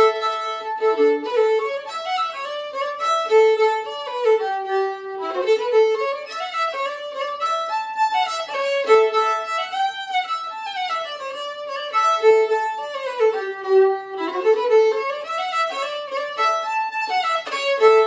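Solo five-string fiddle strung with Helicore strings and a Kaplan E, bowed through a continuous melody of mostly short notes with a few sliding pitch changes.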